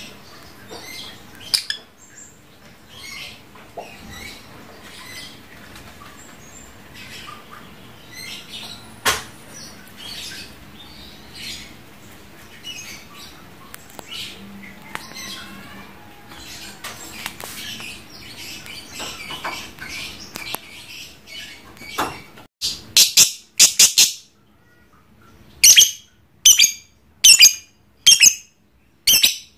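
Lovebird calling: soft, scattered short chirps, then near the end loud, sharp, high calls in quick clusters, the rapid chatter (ngekek) that lovebird keepers prize.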